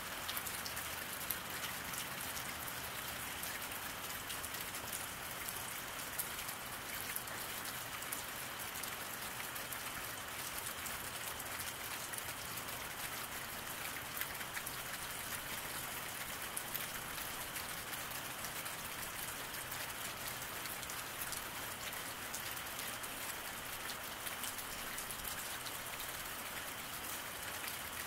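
Steady rain falling on wet pavement: a continuous even hiss with many individual drops ticking through it, no change in strength.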